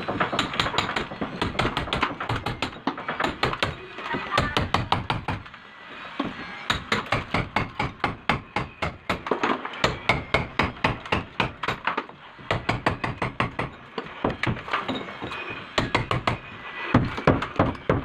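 Hammer blows on a wall, chipping it open to make room for a shower valve: runs of sharp strikes at about four a second, with a couple of brief pauses.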